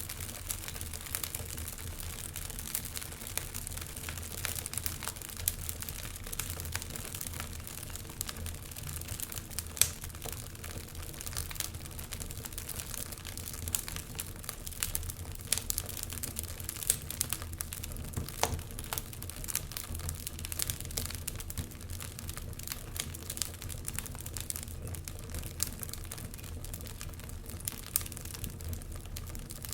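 Wood fire crackling in a fireplace: a steady low rumble of flames with irregular sharp pops and snaps throughout, one louder pop about ten seconds in.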